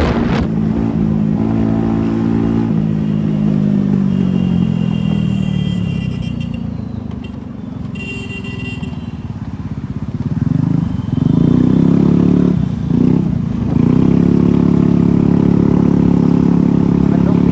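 Motorcycle engine running under way: it slows with falling pitch over several seconds, then picks up again about ten seconds in, its pitch dipping twice briefly before settling into a steady cruise.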